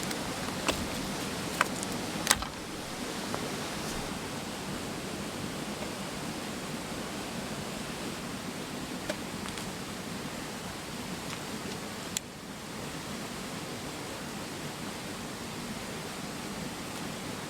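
Steady rushing murmur of a mountain stream. A few sharp clicks or snaps stand out over it, the loudest about two seconds in.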